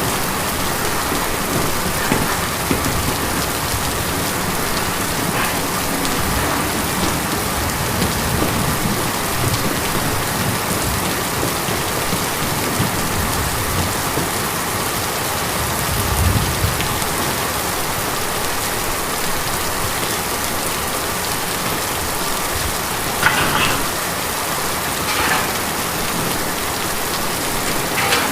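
Steady rain drumming on a tin roof, an even, continuous patter. A brief low rumble swells about halfway through, and a couple of sharper drips or patters stand out near the end.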